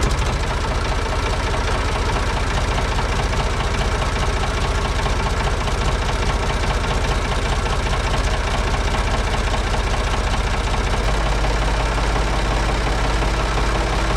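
Ford 3600 tractor's three-cylinder diesel engine running at idle with a diesel knock, just after a cold start. About eleven seconds in the engine note changes.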